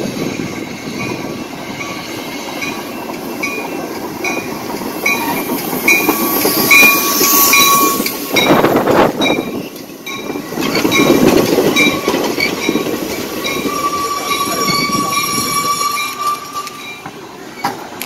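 A double-deck commuter train rolls into the station and brakes to a stop, its wheels rumbling over the rails and its brakes squealing at one steady high pitch twice. A bell dings steadily about twice a second through most of the pass.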